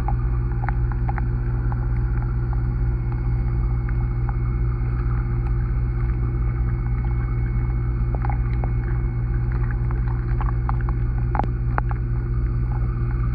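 Underwater pond sound picked up by a submerged camera: a steady low hum with scattered small clicks and ticks.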